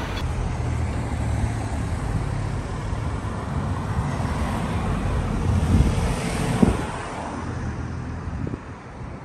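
Car engine running with a steady low hum, with a couple of short knocks about six seconds in; the hum then fades away.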